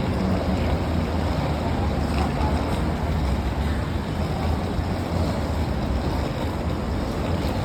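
Steady low rumbling background noise with a hiss on top, heaviest in the deep bass and without any distinct events.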